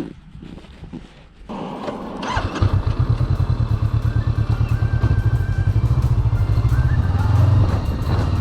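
Honda CB500X parallel-twin motorcycle engine coming in about two seconds in, then running with a loud, steady low pulse.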